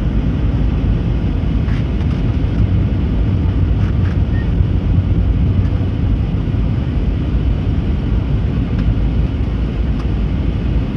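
Steady low rumble of engine and airflow noise inside the cabin of an Airbus A320neo in flight on its descent, with a few faint ticks.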